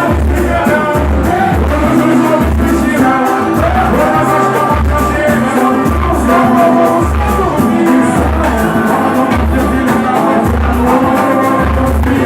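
Live samba: a singer with band accompaniment over a steady, regular deep drum beat.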